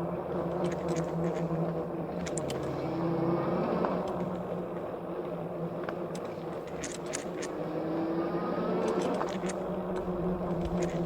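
Philodo Falcon e-bike riding along, its hub motor whining steadily, the pitch rising and falling a little as speed changes, over tyre and ride noise. Scattered sharp clicks and rattles come from the bike over bumps.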